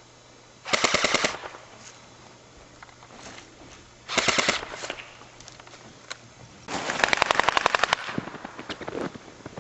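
Airsoft electric guns firing three rapid full-auto bursts, the last one the longest.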